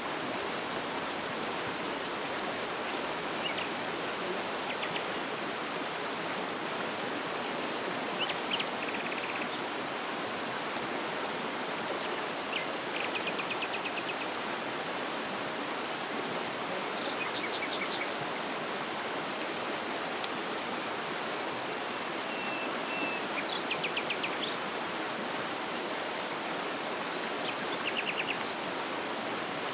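Waterfall rushing steadily, with birds calling now and then over it: short rapid trills several times, and a brief whistle.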